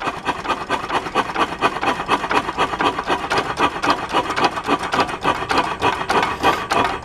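Galloway 5 horsepower single-cylinder hit-and-miss engine running without a muffler: a loud, steady run of rapid, even exhaust beats and valve-gear clatter. It runs a little faster than the owner wants, which he puts down to the governor springs.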